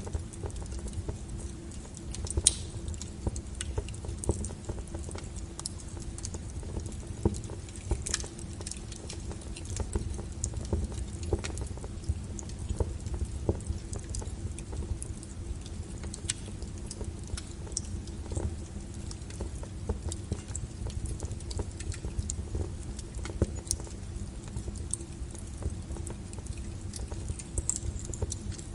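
Wood fire burning in a fireplace: irregular crackles and sharp pops over a low, steady rumble of the flames, with a few louder pops scattered through.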